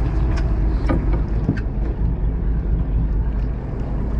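Party fishing boat's engine running steadily with a low rumble, wind noise on the microphone over it, and a few light clicks in the first second and a half.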